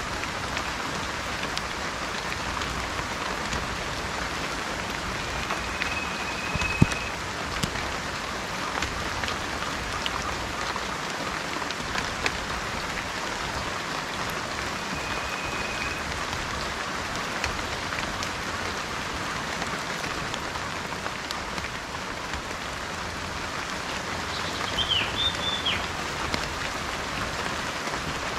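Steady rain falling, with scattered sharp drop hits close by, the loudest about seven seconds in. A bird gives a level whistled note twice, about a second each, and a short warbling call near the end.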